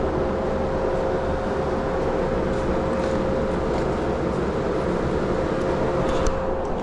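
Steady running machinery in a commercial kitchen: a constant hum and rush with one steady whining tone, unchanging throughout, and a few faint ticks near the end.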